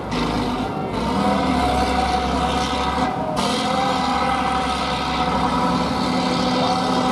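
Heavy truck engine working under load, its revs rising and falling unevenly. A deep rumble underneath fades out about three seconds in.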